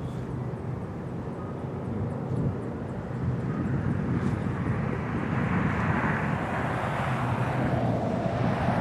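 Diesel freight train approaching: a steady locomotive engine drone with a hiss of wheels on rail that swells over the last few seconds.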